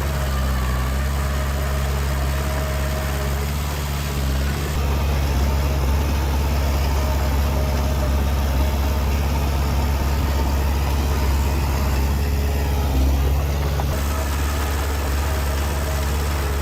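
Heavy diesel engine of earthmoving machinery running steadily with a deep, even drone, a little louder from about five seconds in.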